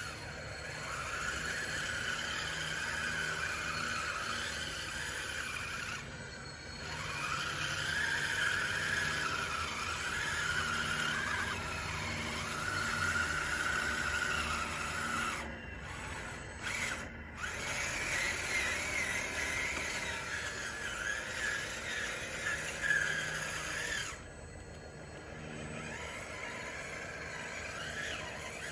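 Scale RC DXR2 bulldozer's small electric motors whining as it pushes dirt. The pitch rises and falls with the load, with brief pauses between pushes and a quieter stretch near the end.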